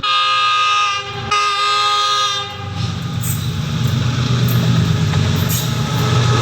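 Train horn sounding two blasts, the first about a second long and the second about a second more after a short break, followed by the steady rumble of the train running on the rails.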